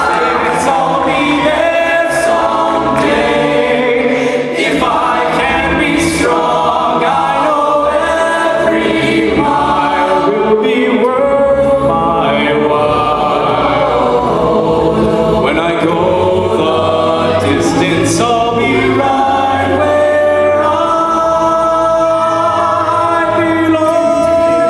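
A cappella vocal group singing in harmony, with a few sharp percussive hits, ending on a long held chord.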